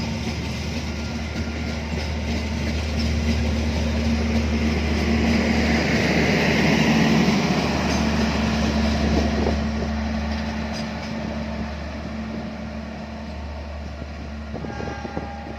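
A train passing, growing louder to a peak about seven seconds in and then fading away, over a steady low hum.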